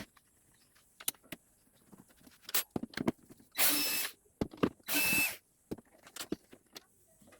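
Small electric screwdriver running in two short spurts, backing out the screws of a speaker cabinet's top cover, with small clicks of handling between them.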